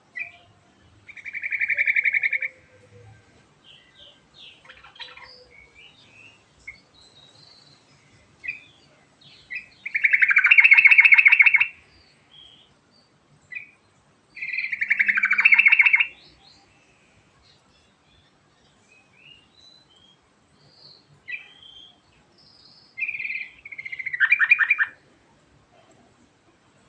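Yellow-vented bulbul singing: four loud, rapidly pulsed rolling phrases of about a second and a half each, spaced several seconds apart, with short scattered chirps between them.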